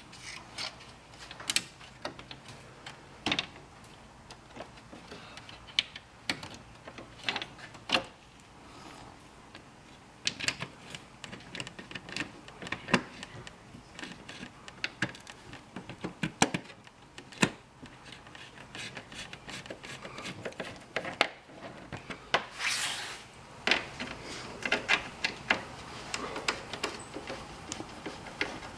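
Irregular clicks, taps and scraping of hand work on car parts, with a longer scrape about three quarters of the way through.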